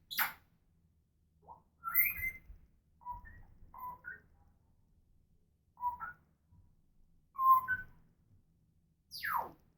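African grey parrot whistling and calling in short separate notes, about seven of them a second or two apart, then a long whistle that falls steeply in pitch near the end.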